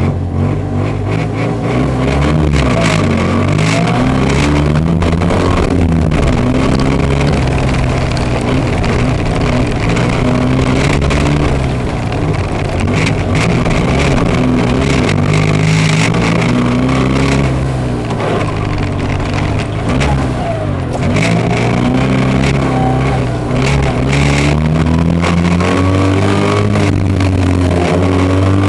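Rally car's engine heard from inside the cabin, loud throughout, its pitch repeatedly climbing under hard acceleration and falling off as the car slows for tight turns, with scattered knocks and rattles.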